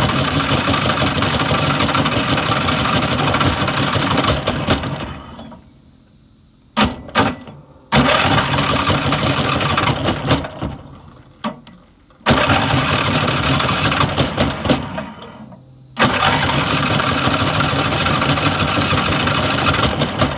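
Riding lawn mower engine being cranked by its electric starter in repeated tries of a few seconds each, with a couple of short bursts between them, without staying running. The starter is fed through wires bypassing a dead solenoid.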